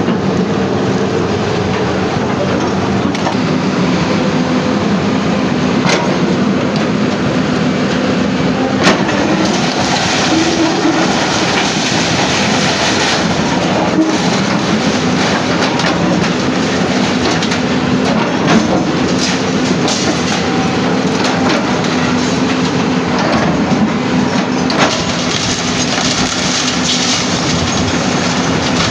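Heavy machinery running steadily, with a few sharp knocks scattered through.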